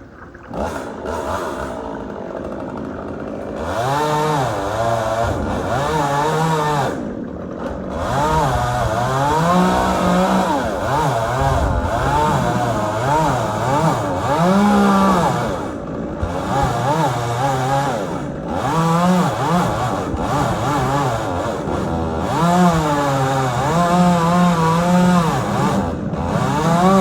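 Chainsaw cutting post oak, its engine pitch rising and falling over and over as it slows in the cut and revs up again. It starts up loudly about half a second in.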